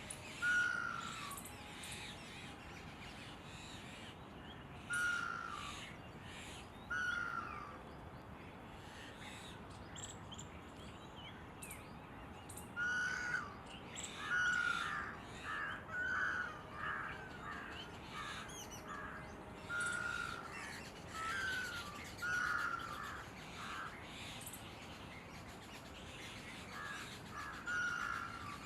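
Red-naped ibis calling: short calls of about half a second, each falling slightly in pitch. They come singly at first, in a quick run of several about halfway through, and in a few more near the end.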